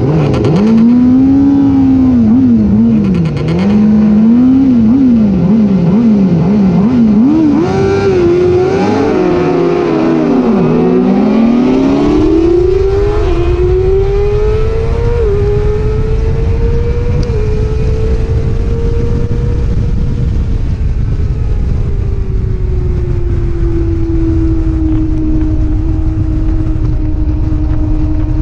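Superbike-class racing motorcycle engine revving up and down in quick blips, then pulling away hard with upshifts that step the pitch, settling into a steady high-revving run. The pitch eases down to a lower steady note past the middle, with wind rushing over the microphone at speed.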